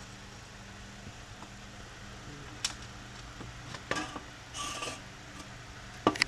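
Small metal parts of a carburetor being handled and taken apart: a few sharp clicks and taps, and a brief rustle about halfway through, over a steady low hum.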